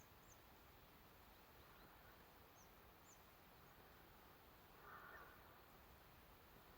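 Near silence: faint open-air ambience with a few brief, high bird chirps.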